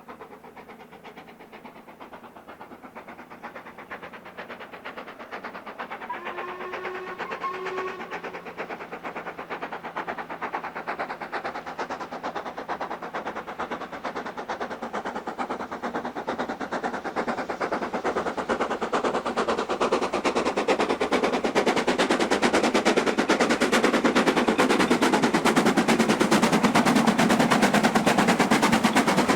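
Steam locomotive working hard as it approaches, its exhaust beats rapid and growing steadily louder. Two short whistle blasts about seven seconds in.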